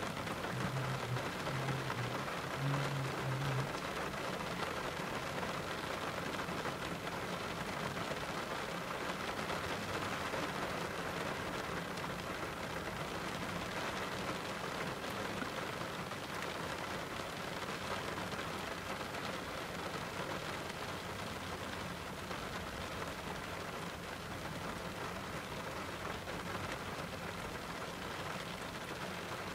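Steady rain falling, a dense even hiss with no thunder standing out. A few short low tones are heard in the first few seconds.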